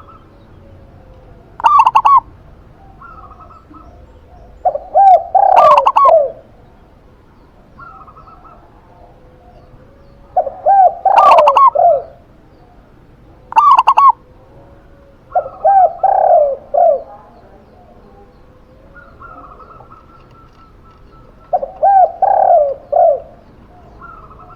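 Zebra dove (perkutut) and spotted dove (tekukur) cooing. About six loud, trilled cooing phrases come a few seconds apart, with faint chirping between them.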